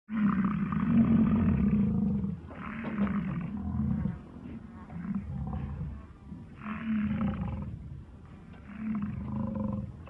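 Water buffalo calling: a long, low call at the start, then four or five shorter low calls every second or two.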